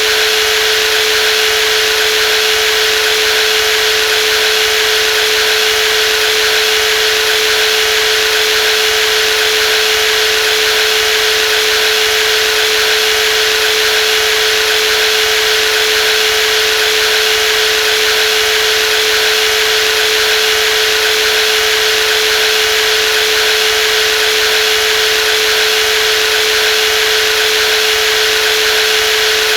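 Brushless jigsaw running steadily with a constant high hum and hiss, with no change in speed.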